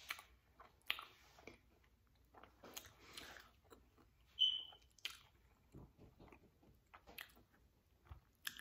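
Faint close-up chewing of a crisp fried egg roll: soft scattered mouth clicks and small crunches, with one brief high squeak about halfway through.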